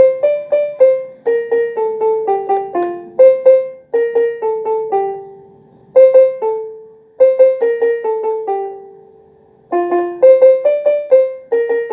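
Electronic keyboard played with a piano sound: a simple melody of separate struck notes that ring and fade, in short phrases broken by brief pauses.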